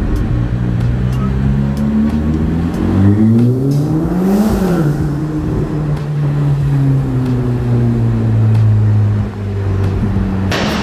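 Ferrari Portofino M's twin-turbo V8 accelerating in a road tunnel. The revs climb for about two seconds, drop sharply about four and a half seconds in, and then hold fairly steady.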